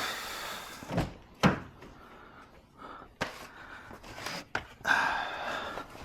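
A few sharp knocks and clunks with scraping and rustling between them, from hands working on a car's interior as it is taken apart.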